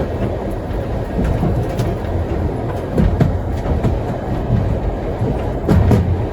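Vintage railway carriage running along the track: a steady low rumble of wheels on rail, with irregular sharp clicks and knocks from the rail joints, a couple of them close together near the end.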